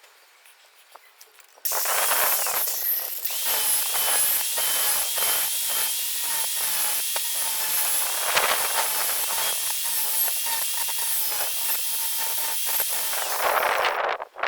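A power tool starts suddenly about two seconds in and runs steadily with a high whine and rapid clicking and rattling, then cuts off shortly before the end.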